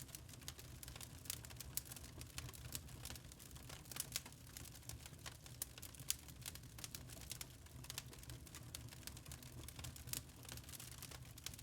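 Wood fire burning in a fireplace: logs crackling and popping with many small irregular snaps over a low steady rumble.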